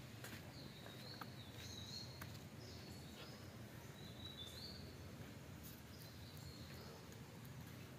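Faint bird chirping: short high calls repeated about once a second, over a low steady background hum.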